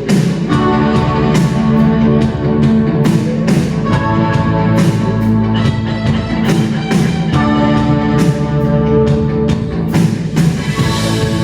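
Live rock band playing an instrumental passage: sustained keyboard chords over a steady drum beat and guitar, heard loud through the concert's amplification.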